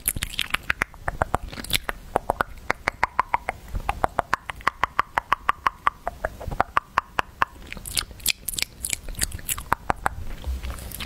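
Fingernails scratching and grabbing directly at a microphone, close up: a quick run of short scratchy strokes, several a second.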